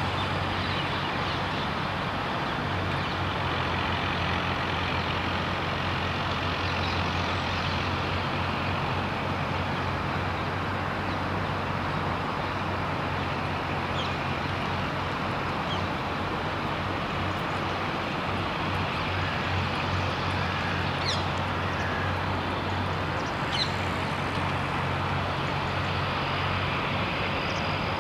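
Steady rumble and hiss of background noise with a low hum underneath, and a few faint, very short high chirps about halfway through and near the end.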